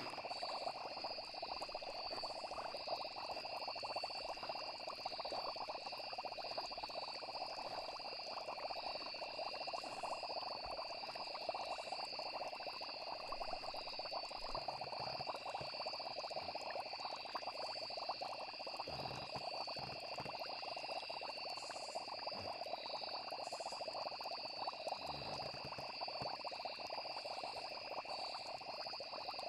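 Night-time chorus of frogs and insects, trilling steadily without a break.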